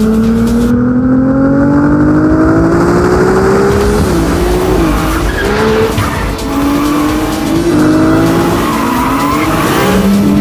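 Ferrari 296 GTB's twin-turbocharged 120-degree V6 under hard acceleration. The engine note climbs steadily with the revs, drops at an upshift about four seconds in, climbs again and drops once more near the end.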